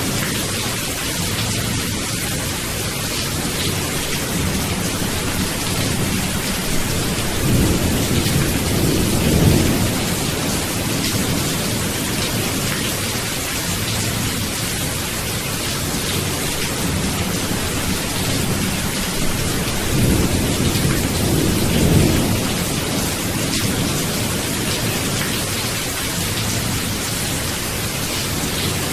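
Steady heavy rain with rolling thunder that swells up twice, about a third of the way in and again about two thirds of the way in.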